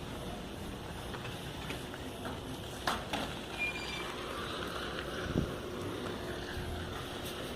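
Riding a bicycle: steady wind and road noise on the microphone, with a couple of sharp knocks, about three seconds in and again near five and a half seconds.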